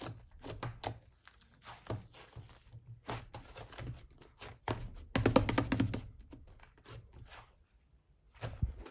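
Slime being squished and poked by hand: irregular little crackles, pops and squelches, with a denser run of crackling about five seconds in.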